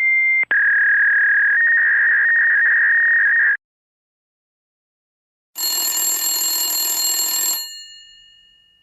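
Telephone sound effects: a steady high electronic tone for about three and a half seconds, with a short break near the start. Then, after a pause, a two-second metallic ringing that stops and fades away.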